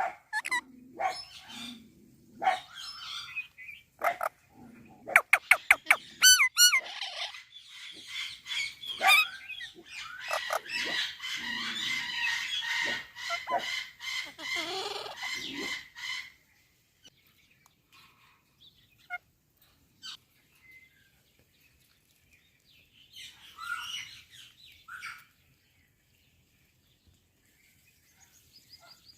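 Pet parrot calling and squawking. A quick series of short, sharp, high whistles comes first, then a long stretch of dense chattering calls that stops about halfway through. After a mostly quiet spell, one brief burst of calls follows.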